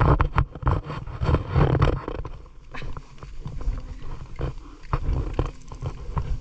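Water splashing and sloshing in a shallow ditch as a fishing net is worked through it: irregular splashes and knocks over a low rumble, busiest in the first two seconds.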